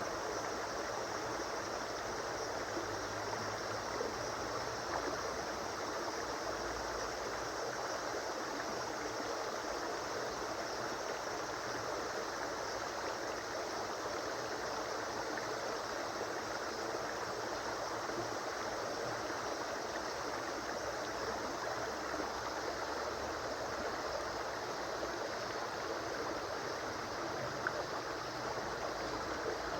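A river or stream flowing, a steady rush of running water. A small click near the end.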